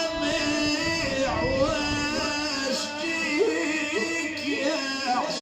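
A man's solo voice chanting a Husayni mourning lament, holding long notes with ornamented, wavering glides between them.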